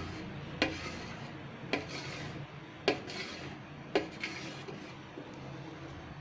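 Rolled-out maida dough being cut into biscuit shapes on a board. The cutting edge strikes the board in sharp taps about once a second.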